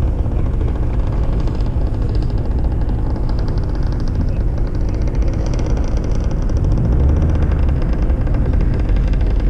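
2012 Mazda 3's engine running as the car is driven, with a heavy, steady low rumble.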